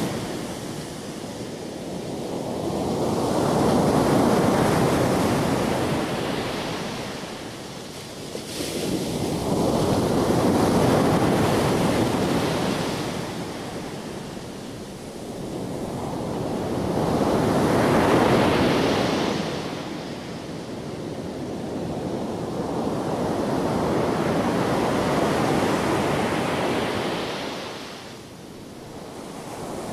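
Sea waves breaking on a beach, rising and falling in slow surges about every seven seconds.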